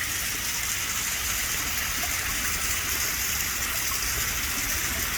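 Heavy rain pouring steadily, with a low rumble of wind underneath.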